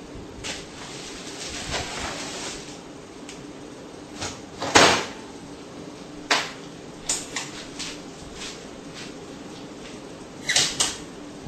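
Microwave oven door being handled and shut, with one loud clack about five seconds in and several lighter clicks and knocks around it.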